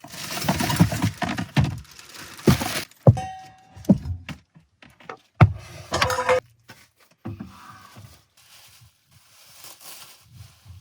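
A series of knocks, clatters and rustling, as of camp gear and cookware being handled and set down, with a brief metallic ring about three seconds in.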